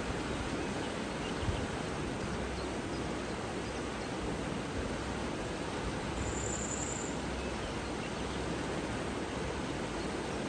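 Steady rush of flowing water, an even hiss, with a brief faint high note about six and a half seconds in.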